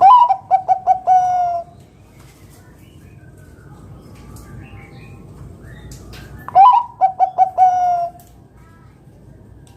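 Bangkok perkutut (zebra dove) singing its cooing song twice, about six seconds apart. Each phrase opens with a rising note, runs through a quick string of short coos and ends on one long held coo.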